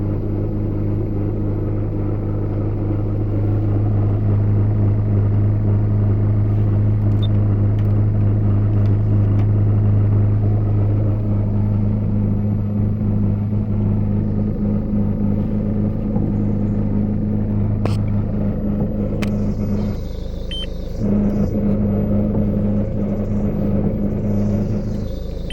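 Peugeot Partner 1.9-litre four-cylinder diesel engine running steadily at idle, with an irregularity and noise that the owner cannot place. Its steady hum dips briefly about twenty seconds in, then picks up again.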